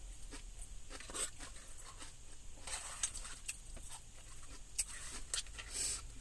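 Close, wet chewing and lip-smacking of a person eating loaded tater tots with nacho cheese, in a run of irregular small smacks and clicks.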